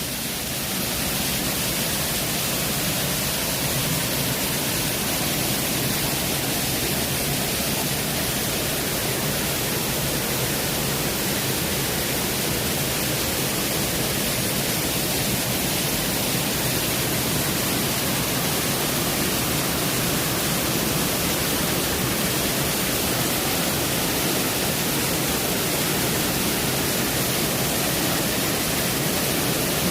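Waterfall water rushing in a steady, even hiss that doesn't change.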